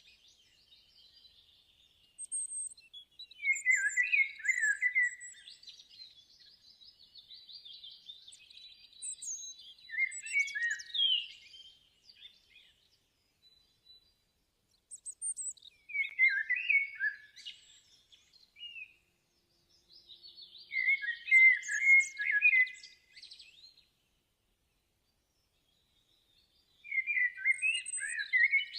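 Birds singing in short bursts of rapid chirps, about five phrases a few seconds apart.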